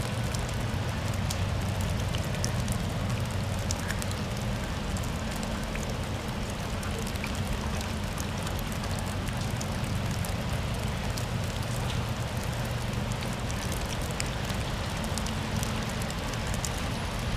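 Steady rain falling, with small drops ticking close by, over a steady low rumble.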